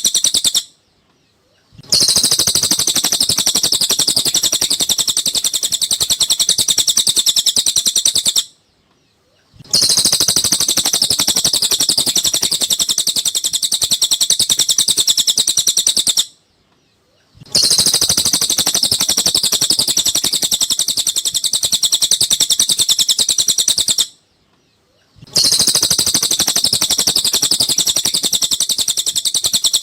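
Cililin bird song: a rapid, high-pitched twittering chatter in bouts of about six to seven seconds, each broken by a silent pause of about a second. The bouts repeat evenly, as a looped training recording for songbirds.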